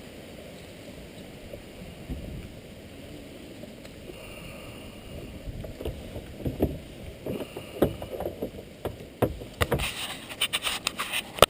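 Kayak on the water: a steady low wash at first, then from about halfway a run of knocks and splashes that comes thicker near the end, ending in one sharp click.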